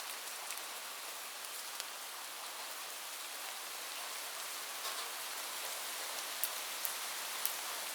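Steady rain falling on a roof, an even hiss with scattered sharper drop ticks.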